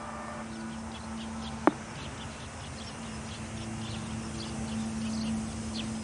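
Small birds chirping again and again in the background over a steady low hum. The last ringing tones of a music-box loudspeaker chime die away at the very start, and one sharp click comes about a second and a half in.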